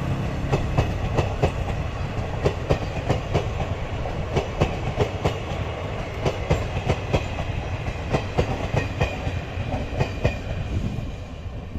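Passenger train rolling past, its wheels clicking over rail joints in a steady run of paired clicks, several a second, over a constant rumble. The sound fades near the end.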